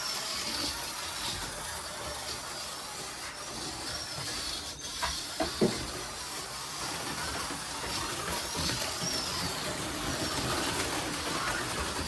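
HO slot cars running laps on a plastic track: the small electric motors whine high, rising and falling as the cars speed up and slow through the corners, over a steady hiss of the running cars. Two sharp clacks about five and a half seconds in.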